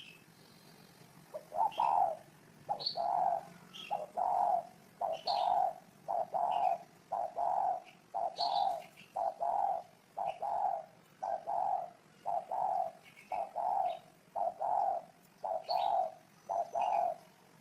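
Spotted dove cooing: a long run of low coos repeated about once a second, starting about a second and a half in. Short high chirps of smaller birds sound now and then above it.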